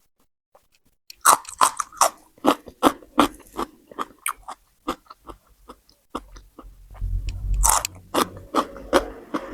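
Close-up chewing of crunchy raw vegetables, a fast run of crisp crunches starting about a second in, with a heavier, deeper stretch of chewing near the end.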